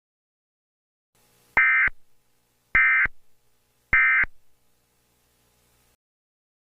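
Emergency Alert System end-of-message tones: three short electronic data bursts, each about a third of a second long and about a second apart, signalling that the alert has ended.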